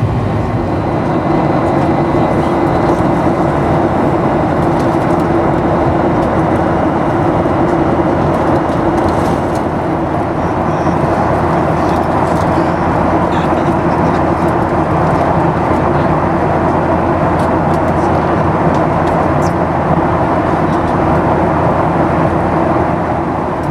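Steady jet airliner cabin noise inside a Boeing 737-800: an even rush with a low hum from its engines and airflow.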